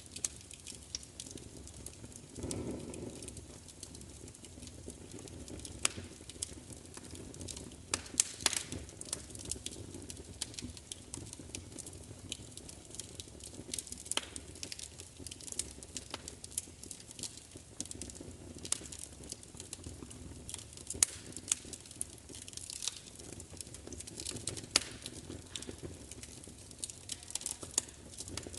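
Wood fire crackling: irregular sharp pops and snaps, a few louder than the rest, over a low steady hiss.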